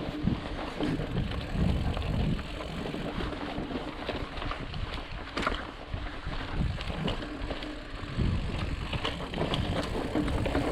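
Ibis Ripley mountain bike being ridden over rock and sand, with scattered clicks and rattles from the bike and tyres. Wind buffets the microphone in gusts.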